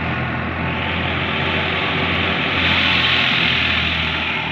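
Heavy farm machine engine running steadily under load, a low hum with a rushing noise that swells louder in the middle.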